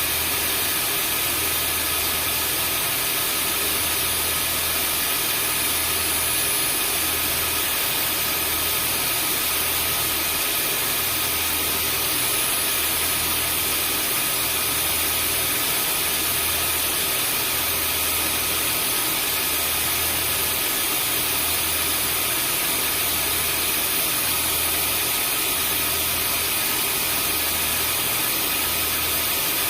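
Vacuum cleaner running steadily: a constant rushing hiss with a thin high whine over it, and a low hum that swells about every two seconds.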